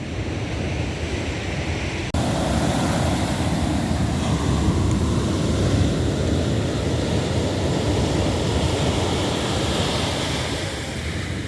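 Ocean surf rushing up the beach and washing back over the sand, with wind on the microphone. It gets suddenly louder about two seconds in and eases off near the end.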